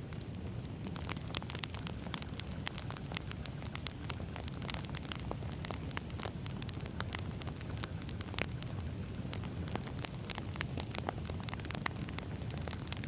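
Wood fire burning: a steady low rumble of flames with frequent sharp crackles and pops of burning logs.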